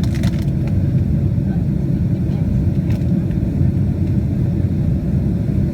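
Steady low rumble of airflow and engines heard inside the cabin of a Boeing 767-300ER airliner, with a few faint clicks near the start and about three seconds in.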